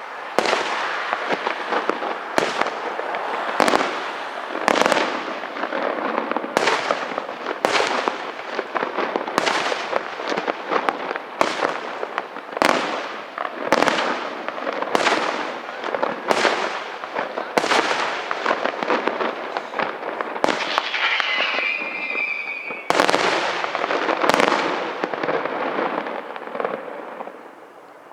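Aerial fireworks display: loud shell bursts about once a second over continuous crackling, with a whistling tone for about two seconds around two-thirds of the way through. The barrage dies down near the end.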